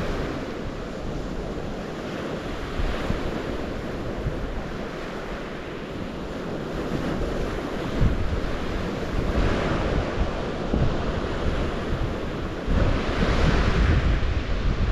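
Open water rushing steadily, swelling louder twice in the second half, while wind gusts buffet the microphone with low rumbles from about eight seconds in.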